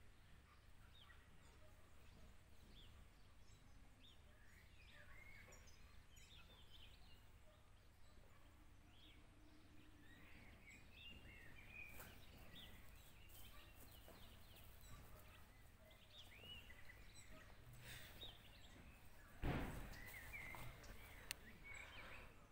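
Faint outdoor birdsong: many short chirping calls from small birds, over a low steady hum. About three-quarters of the way through, a sudden brief loud noise close to the microphone.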